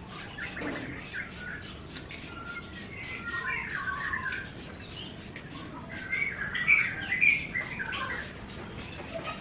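Birds chirping and twittering in quick, varied phrases, busiest around the middle and loudest in the second half.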